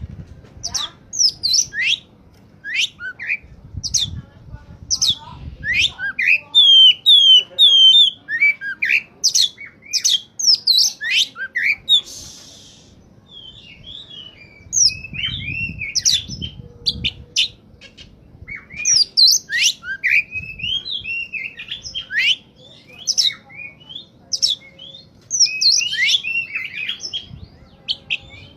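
Oriental magpie-robin singing hard: a fast, varied run of loud whistles, quick slurs and chirps, with a short run of repeated down-slurred notes and a brief lull about halfway through.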